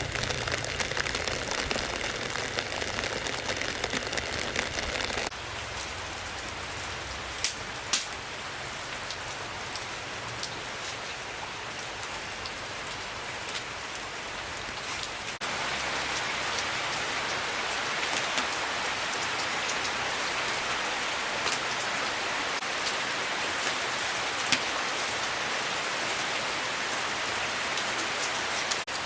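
Rain falling steadily on surfaces: a continuous hiss with individual drops ticking sharply here and there. The sound changes abruptly about five seconds in and again about fifteen seconds in, growing fuller after the second change.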